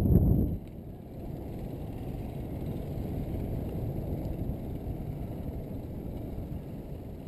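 Low, steady rumble of wind and rolling road noise on a bike-mounted GoPro during a road-bike climb. A louder rumble cuts off suddenly about half a second in.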